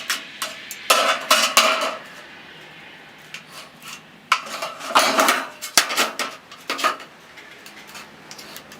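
Clattering of hard objects being handled, in two bursts of knocks and rattles: one about a second in and a longer one from about four to seven seconds in.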